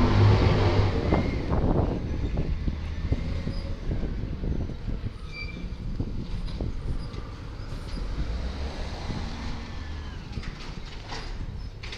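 Diesel engine of a Volvo side-loader garbage truck running loud at first, then fading after about two seconds, with scattered clanks and rattles of the truck's body.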